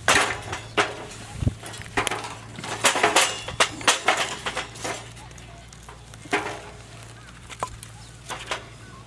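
Firewood burning in a double-combustion fire pit, crackling and popping irregularly, with clusters of sharp cracks near the start and around three to four seconds in. A steady low hum runs underneath.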